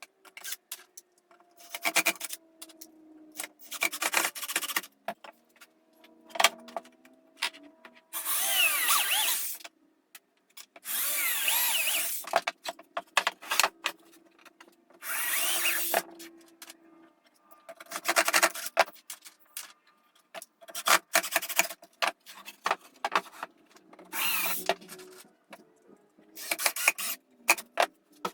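Power tools working wood in a series of separate bursts, several lasting a second or two, with shorter sharp bursts between them.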